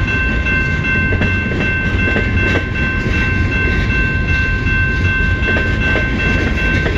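CN freight train's cars rolling past: a steady low rumble of wheels on rail. Two steady high tones are held over it.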